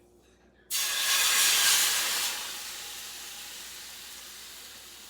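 Beef broth poured into a hot pan, hissing loudly as it hits the metal starting just under a second in, then slowly dying away.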